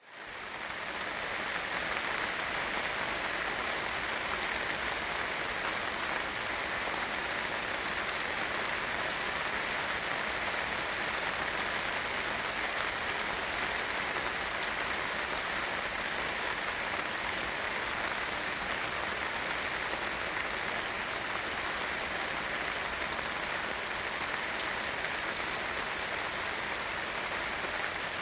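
Steady rain drumming on a camping tarp, a dense even patter that fades in over the first second.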